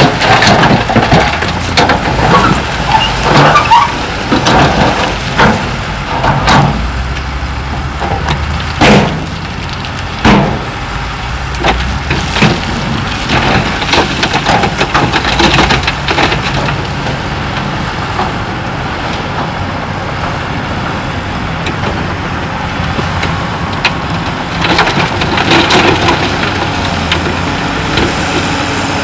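Heavy earthmoving machinery running with a steady low engine drone, over irregular knocks and clatter of rock being moved.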